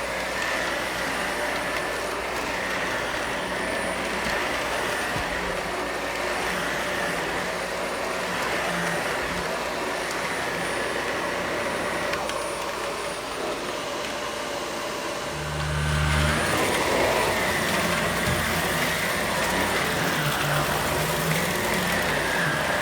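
Vacuum cleaner running steadily with a faint whine over its airflow noise; it grows louder about two-thirds of the way through.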